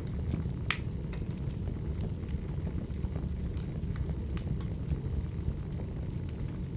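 Firewood burning and crackling: a steady low rumble of flames with sharp pops scattered at irregular intervals, the loudest a little under a second in.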